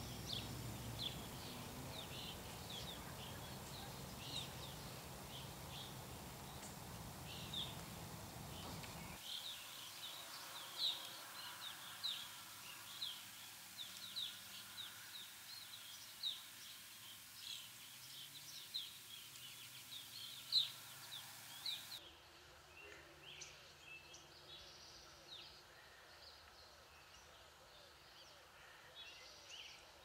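Small birds chirping: many short, high chirps in quick succession, over a low background rumble that drops away about nine seconds in.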